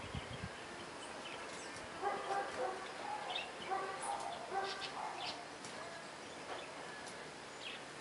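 Small garden birds chirping in short high notes, with a dog barking repeatedly in the distance from about two to five seconds in.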